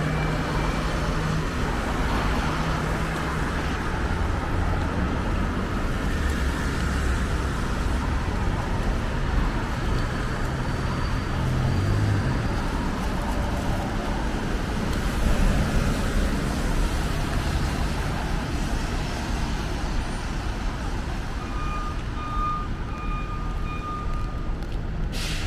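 Steady city road traffic: a continuous wash of passing-vehicle noise with a low rumble, on rain-wet streets.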